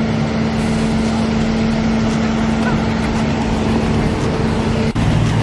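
A car engine running at steady revs, its note holding one pitch. It cuts off abruptly near the end and a different, lower engine note takes over.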